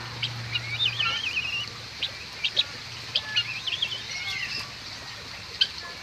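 Birds chirping: quick warbling trills and short sharp chirps, several in the first half and a few single chirps later.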